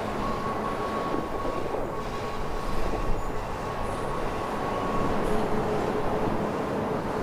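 CSX freight train rolling past: a steady rumble of wheels on rail, with a thin steady squeal over it that stops about five seconds in.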